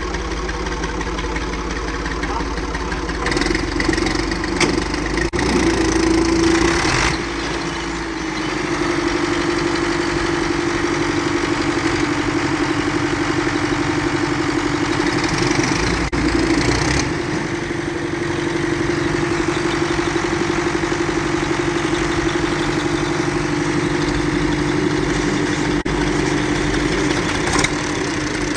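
Diesel tractor engine running, louder and rougher for a few seconds about three seconds in, then settling into a steady idle.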